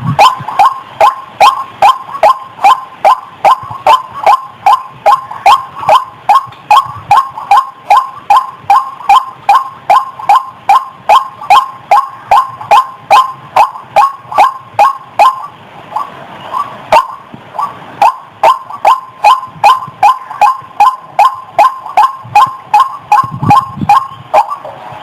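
White-breasted waterhen (ruak-ruak) giving its repeated harsh "wak" call, about three calls a second, with a brief pause about two-thirds of the way through before the calling resumes.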